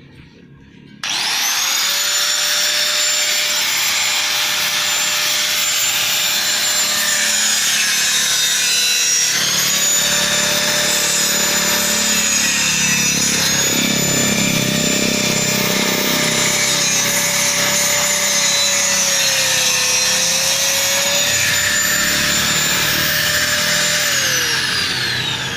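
Handheld electric power tool running at high speed with a steady whine. Its pitch dips briefly twice as it bites into the work, and it winds down with falling pitch near the end.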